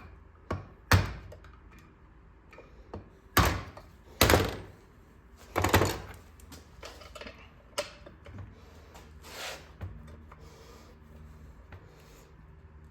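Hand tools knocking and scraping on small-engine metal parts: half a dozen sharp clanks spread over the seconds, with a couple of longer scrapes between them.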